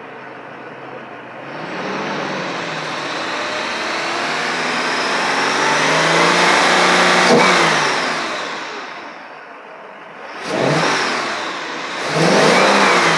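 Mercedes-Benz 560SL's M117 V8 revved up from idle. The engine speed climbs slowly for several seconds and falls back, then comes up twice more in shorter revs near the end.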